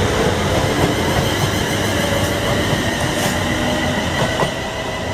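A train passing close by on the line, a loud steady rumble with a faint high whine over it, easing off near the end.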